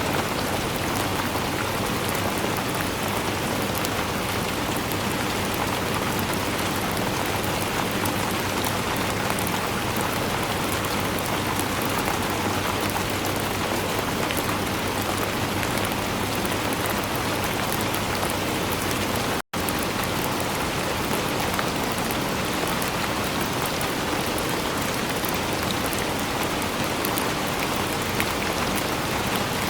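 Steady rain, an even, dense hiss of falling drops with fine patter in the highs. About two-thirds of the way through, the sound drops out to silence for a split second and then resumes unchanged.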